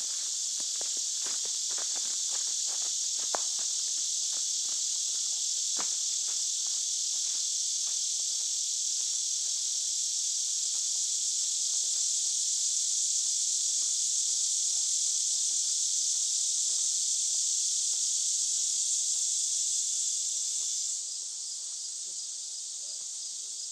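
A dense, steady chorus of insects buzzing high, with footsteps that fade away over the first several seconds. The chorus drops suddenly in level near the end.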